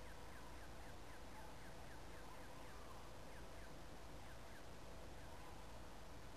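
Faint outdoor background with a steady hiss and low rumble, over which a bird calls in a quick series of short falling notes, about three a second, which fade out past the middle.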